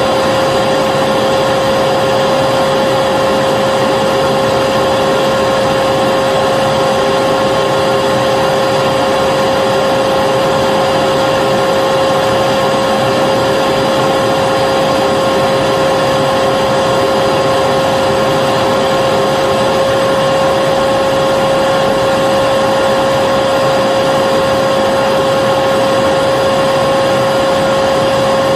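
Vacuum cleaner running steadily, a continuous rush of air with a constant high whine from its motor.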